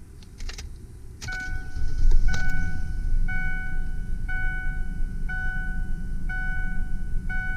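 A 2001 Mazda B4000's V6 is cranked and starts about two seconds in, then runs steadily at idle; it starts without trouble. A dashboard warning chime dings about once a second over the running engine.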